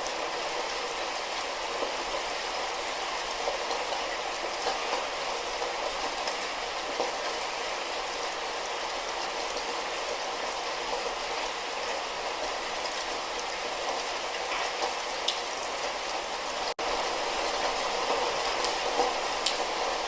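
Light rain falling steadily, an even hiss with scattered individual drops ticking. The sound cuts out for an instant about 17 seconds in, then carries on slightly louder.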